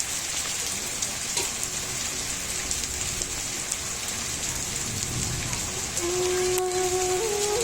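Steady rain falling, with individual drops ticking close by. About six seconds in, a slow flute-like tune begins over the rain.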